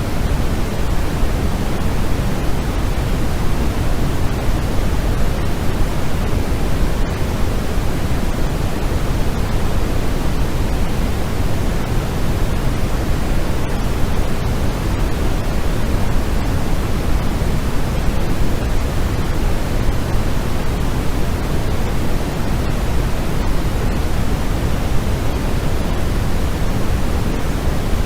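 Steady, unbroken white-noise sleep sound: an even hiss that never changes, heavier in the low end than in the highs.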